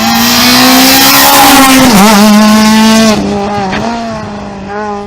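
Rally car engine running hard at high revs as the car passes close, with a brief dip in revs about two seconds in, like a quick gear change, then fading as it moves away after about three seconds.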